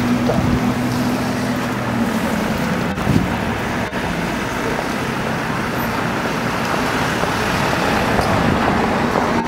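Aston Martin Rapide's V12 engine running as the car pulls away, mixed with street traffic noise. A steady low engine tone in the first two seconds gives way to an even traffic and road noise.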